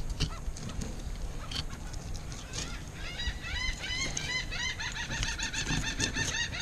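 A bird calling in a fast series of short chirping notes, several a second, from about three seconds in. Faint scrapes and taps of a fillet knife working through a fish are underneath.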